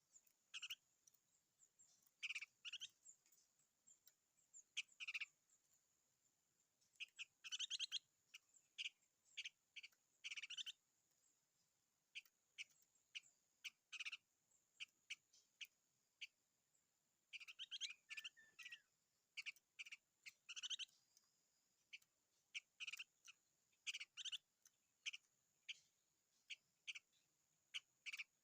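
A small songbird calling in short bursts of rapid, clicking chirps, one every second or two, some in quick pairs. A faint, steady high-pitched whine runs underneath.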